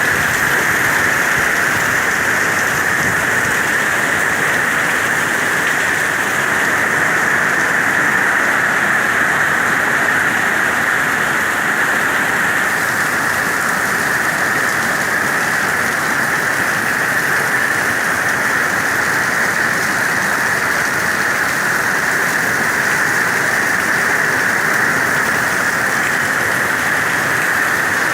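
Heavy tropical-storm rain falling steadily and splashing on the ground and puddles.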